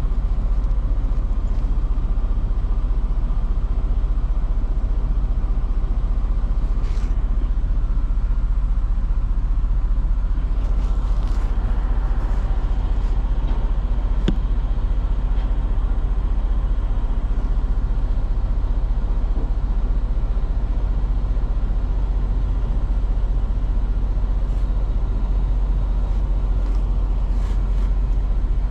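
Steady low rumble of an idling truck engine, with a few faint knocks and clanks scattered through, the sharpest about halfway.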